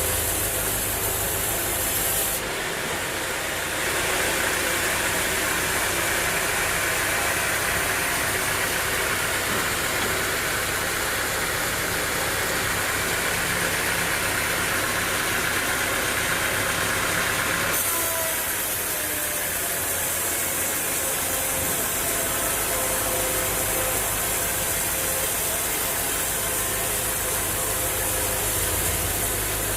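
Sawmill machinery running steadily and loudly. Its sound changes about two seconds in and again about eighteen seconds in, fuller in the middle range between those points.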